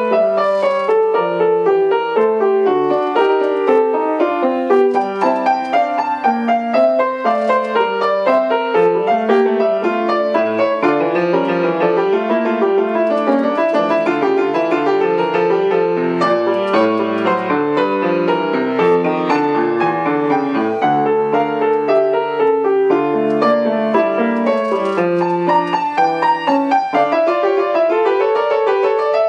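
Solo piano playing a classical piece in quick, continuous running notes, with several voices moving at once.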